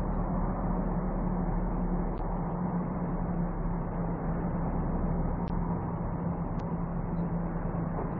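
Steady engine and road noise of a moving vehicle as a dashcam picks it up, with a constant low hum.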